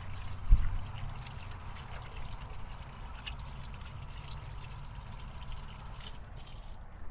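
Hands being washed under a thin trickle of running tap water, which stops near the end. A dull thump comes about half a second in.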